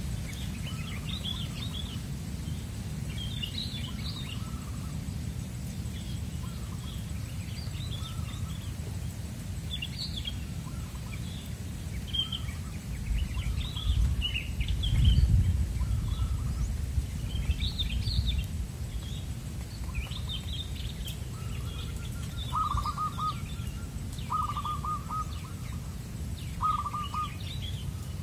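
Small birds chirping on and off throughout, with three short trilled coos of a zebra dove (perkutut) in the last third, over a steady low rumble.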